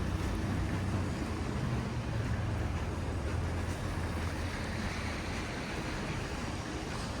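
Snowy city street traffic: a vehicle's low engine hum fades over the first few seconds, under a steady hiss of tyres through wet snow that swells in the middle.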